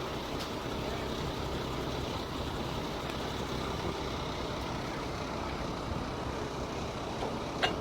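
Rail-mounted truck's engine running steadily, with one sharp click near the end.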